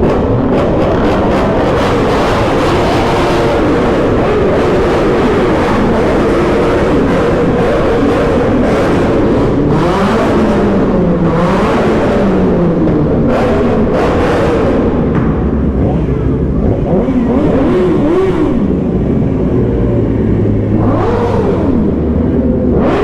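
Yamaha R6 sport bike's inline-four engine running as the bike rides off, its pitch rising and falling repeatedly with throttle and gear changes, over rushing wind noise.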